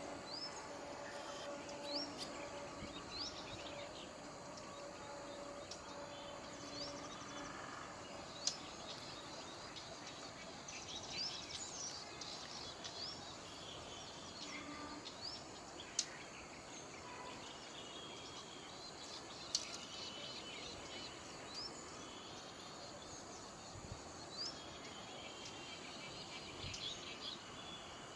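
Birds chirping over a steady background hiss: many short, high, upward-sweeping chirps scattered throughout. Three sharp clicks come through the middle, and a faint low hum is heard for the first several seconds.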